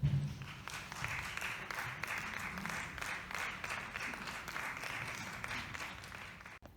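Applause: many hands clapping, slowly fading and cutting off abruptly near the end.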